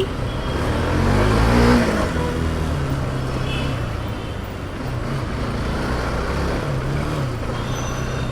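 Vehicle engine picking up speed about a second in, then running steadily amid road traffic.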